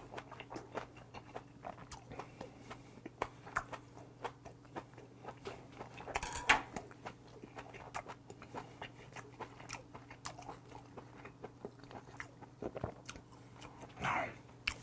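A person chewing a mouthful of boiled monkfish with garlic chives: a steady run of small wet mouth clicks and smacks, with a louder smack about six and a half seconds in. A faint steady hum sits underneath.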